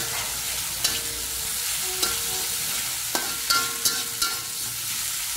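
Pounded chilli, shallot, garlic and belacan paste sizzling in hot oil in a wok while it is stirred with a spatula, which scrapes and taps against the pan a few times. The paste is being fried until it turns fragrant and crisp.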